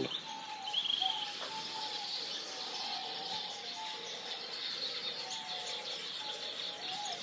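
A dense chorus of many birds chirping at once, a steady wash of high chirps with shorter, lower calls repeating throughout.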